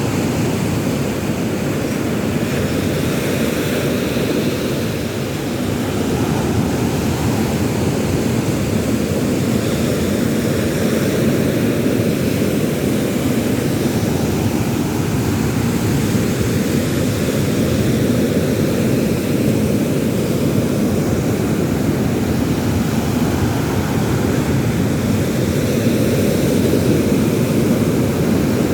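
Steady low roar of surf and wind at the sea shore, swelling and easing slowly.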